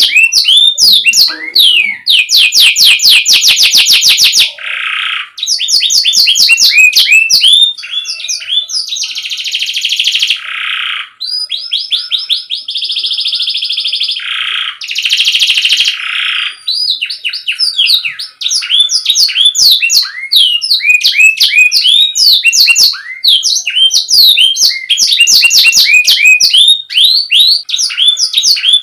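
Canary singing a loud, continuous song of fast repeated notes and trills, each phrase lasting a second or two before switching to another, with a few held, rolling phrases in the middle.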